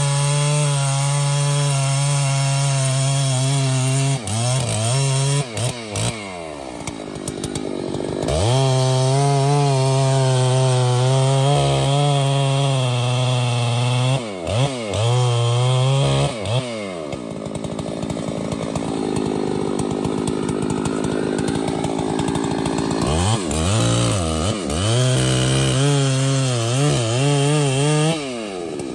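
Chainsaw running at full throttle cutting into a tree trunk. Its engine speed drops back and revs up again several times.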